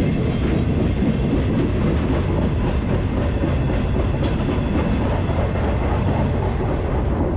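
Freight train rolling along, heard from aboard a railcar: a steady, loud rumble and rattle of the wheels on the rails.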